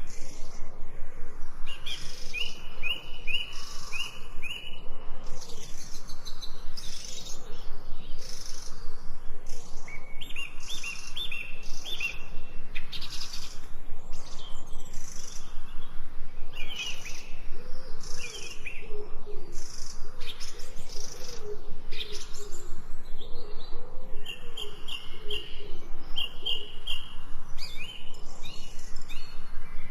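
Several wild birds singing and chirping together: short runs of quick repeated chirps keep coming, with a lower wavering call in the middle.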